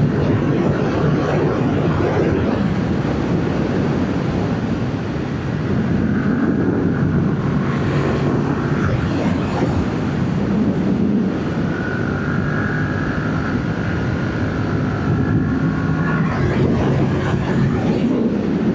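Yamaha MT-07's parallel-twin engine running under way on its stock exhaust, its note rising and falling with the throttle, over a steady rush of riding noise.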